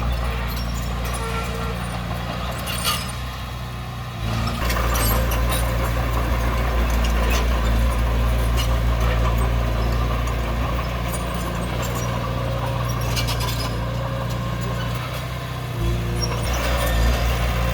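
Heavy diesel earthmoving machinery working: a steady engine drone that gets louder about four seconds in, eases briefly near the end and picks up again, with occasional metallic clanks.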